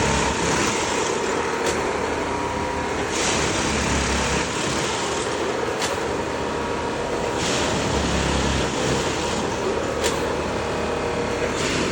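Rail tamping machine working: its engine drones steadily while a work cycle repeats about every four seconds, each cycle a burst of rushing hiss with a low rumble followed a couple of seconds later by a sharp clack.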